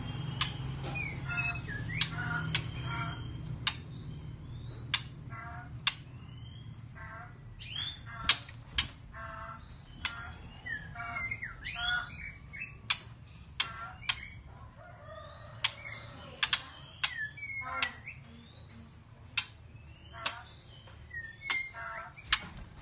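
White-rumped shama calling: sharp, loud clicks at irregular intervals, mixed with short chirps and brief runs of repeated notes that glide up and down.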